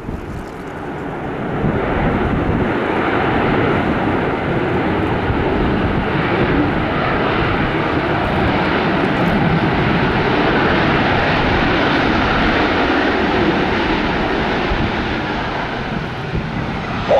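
Airliner jet engines at takeoff thrust: a loud, steady rush of jet noise that builds over the first couple of seconds, holds, and eases slightly near the end.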